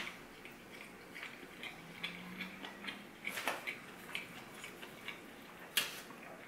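A person chewing a mouthful of soft pizza crust: faint, scattered wet mouth clicks and smacks, with two louder ones about three and a half and six seconds in.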